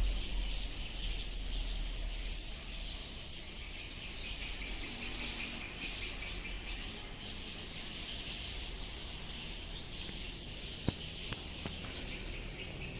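Swiftlet calls: a dense, continuous high twittering chorus with no break, and a single faint click near the end.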